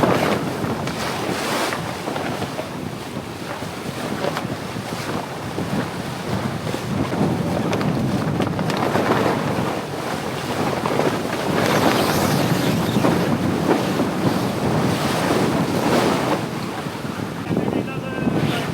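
Wind buffeting the microphone over the rush of sea and waves on a sailboat under way, swelling and easing in gusts.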